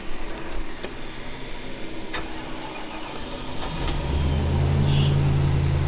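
Pickup plow truck's engine cranking and catching about four seconds in, then running steadily at a fast idle: the truck starts.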